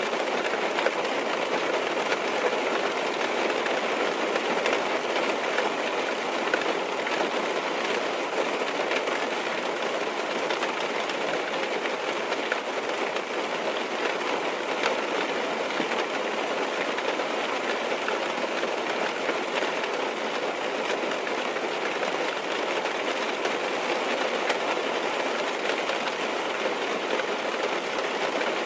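Steady rain falling on a car's roof and windows, heard from inside the cabin, with scattered taps of single drops.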